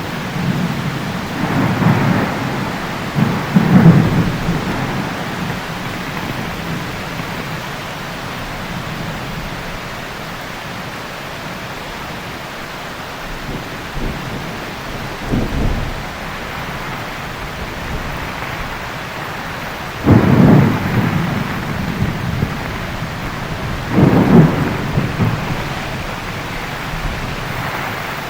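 Heavy rain falling steadily through a thunderstorm, with thunder rumbling several times: a run of rumbles in the first few seconds, a short one midway, and the loudest two in the last third.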